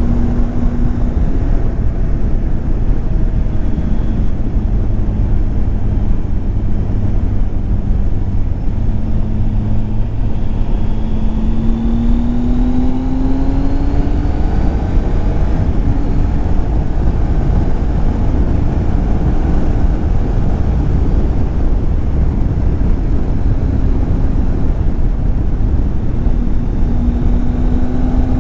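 Triumph Tiger 800 XCX's three-cylinder engine running while riding, over a steady rush of wind and road noise. About ten seconds in the engine pitch rises smoothly for a few seconds as the bike accelerates, then holds steady.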